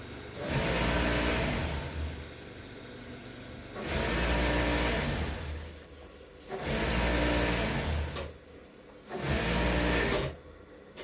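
Electric sewing machine stitching in four short runs of a second or two each, stopping briefly between runs.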